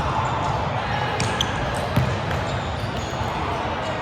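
Volleyballs being struck and bouncing, a few sharp thuds with the loudest about two seconds in, over a steady din of players' voices.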